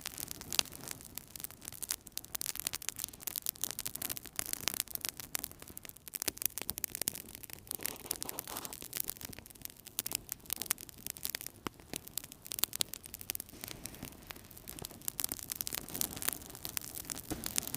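Wood fire burning in a fireplace, crackling with a steady stream of small, irregular pops over a soft hiss.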